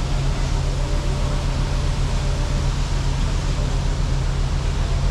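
Steady low drone and hiss of a moving vehicle, engine and road noise running evenly.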